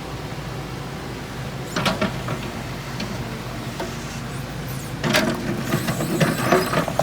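Excavator's diesel engine running steadily, with a brief clatter about two seconds in and a longer stretch of clattering and scraping from about five seconds in, as the bucket works in rock.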